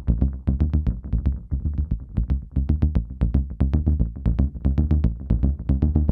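Behringer Neutron analog synth bass line played through an MXR Carbon Copy analog delay pedal: a fast, even pattern of short, sharply attacked bass notes with the pedal's echo repeats.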